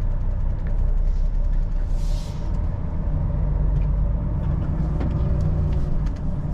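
Semi-truck diesel engine rumbling steadily as the loaded rig pulls away, with a short hiss of released air about two seconds in.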